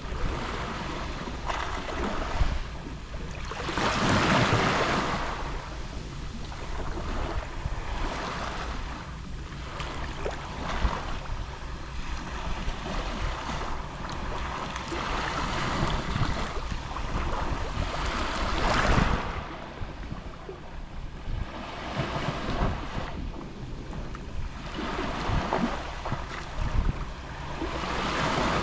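Gentle Mediterranean sea waves lapping on the shore, each wash swelling and fading every few seconds; the biggest comes about four seconds in and another just before twenty seconds.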